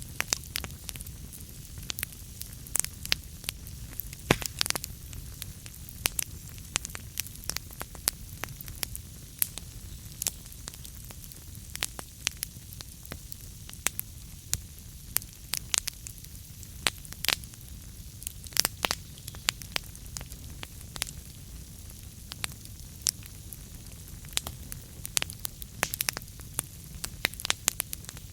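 Wood fire burning in a fireplace: a steady low rumble of flames with many sharp, irregular crackles and pops of burning logs.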